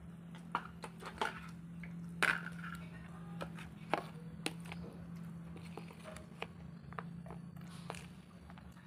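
A person chewing food: scattered small wet smacks and clicks from the mouth, the loudest about two seconds in, over a steady low hum.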